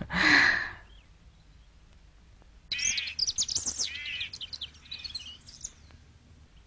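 A brief hiss of noise at the very start, then a bird chirping and singing: a quick run of high, sweeping whistled notes lasting about three seconds, starting almost three seconds in.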